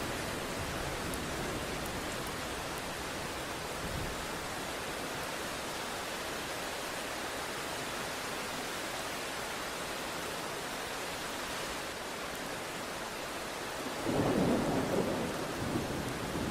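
Steady heavy rain hissing, with a low rumble of thunder breaking in near the end.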